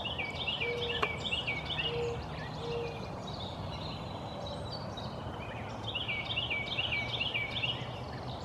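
A songbird singing two phrases of quickly repeated down-slurred whistled notes, one at the start and one about six seconds in, over steady outdoor background noise.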